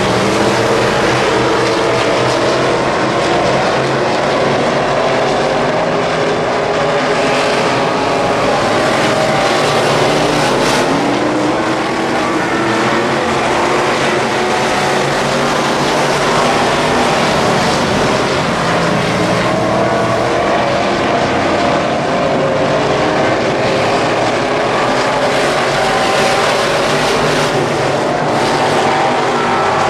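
Wissota Midwest Modified dirt-track race car engine running hard at race pace, loud and continuous, the revs rising and falling again and again.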